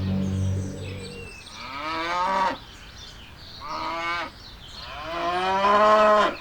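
Cattle mooing: a long low moo fades out about a second in, then three more moos follow with sliding pitch, the last one the longest.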